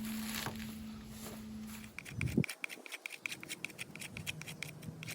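Knife blade carving shavings and feathers from a Virginia pine stick, with scraping strokes over a low steady hum. After a break near the middle, a fast run of light, sharp ticks follows.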